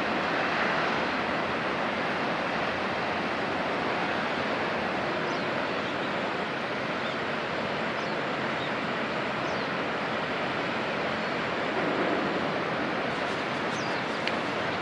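Steady rushing of sea water and wind, with a few faint, short, high chirps over it.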